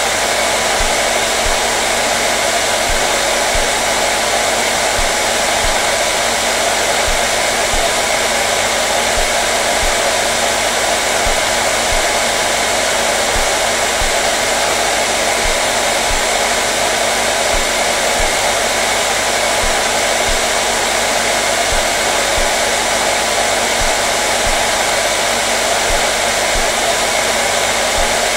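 Hair dryer running continuously at a steady setting: an even, loud rush of air with a faint steady motor hum, no change in speed.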